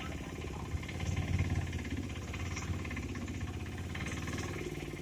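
An engine running steadily, with a fast even pulse.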